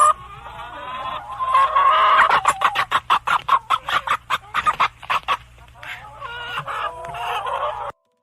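Chickens clucking: a run of quick, sharp repeated clucks in the middle, among longer calls, cutting off suddenly near the end.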